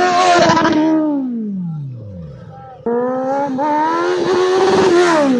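Motorcycle engine held at high revs, then winding down as the throttle closes. About three seconds in it jumps back to high revs, holds, and starts falling again near the end.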